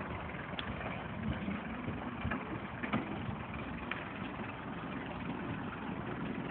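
Mitsubishi Delica 4x4's engine running steadily as the van works its way up a steep off-road hill, with a few light knocks.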